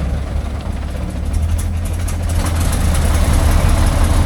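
Heavy truck engine running under load, growing louder from about a second in as it works to tow a truck stuck in deep mud on a taut cable.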